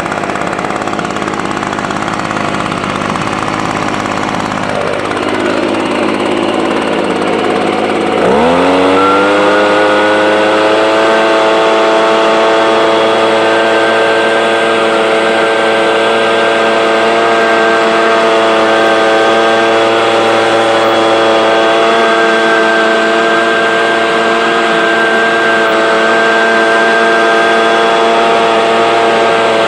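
Ryobi EBLK-2600 two-stroke engine leaf blower running at part throttle, its speed sagging briefly, then throttled up about eight seconds in and held at a steady high speed.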